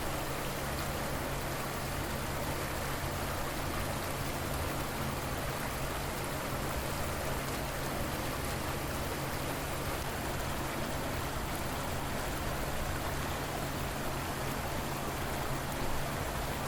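River water flowing: a steady, even rush with no breaks, over a faint steady low hum.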